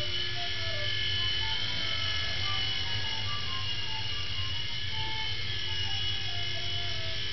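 Small toy RC helicopter's electric motors and rotor blades buzzing steadily in hover flight.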